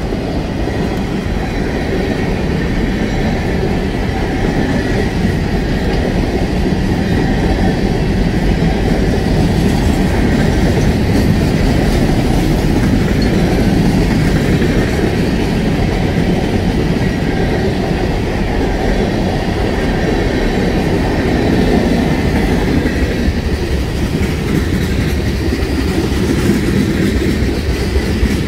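Freight train's cars rolling past close by: a steady rumble with the clatter of wheels on the rails.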